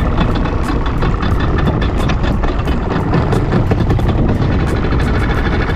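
Boat motor running steadily, with many short taps scattered through the noise.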